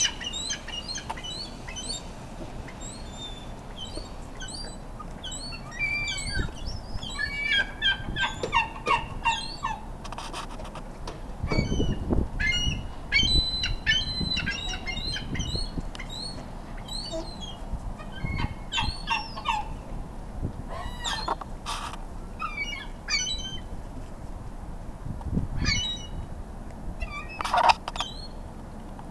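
Gulls squabbling over food: many short, sharp calls in quick, overlapping clusters, mostly from a ring-billed gull, with a few low rumbles in between.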